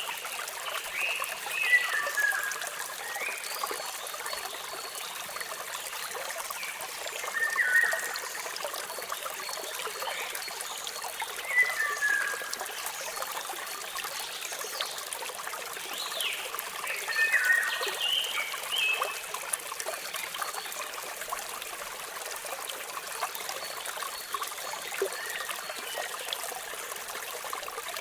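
Steady rush of flowing water from a waterfall, with birds chirping over it in several short bursts of quick rising and falling notes.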